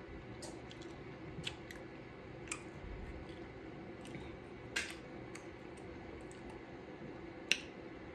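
Close-up eating sounds: a person chewing, with scattered soft wet mouth clicks and smacks, two sharper ones near the middle and near the end, over a faint steady hum.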